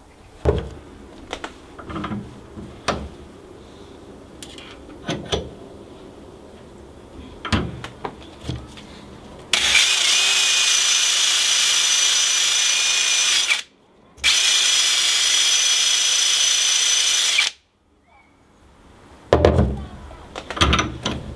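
Electric drill running at a steady speed in two runs, about four seconds and then about three seconds with a short pause between, starting and stopping abruptly. Scattered knocks and clatter of tools being handled come before and after.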